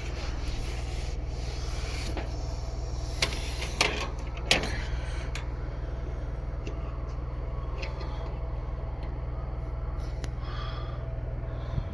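Portable electric fan heater running with a steady low hum. Three short knocks about three to four and a half seconds in.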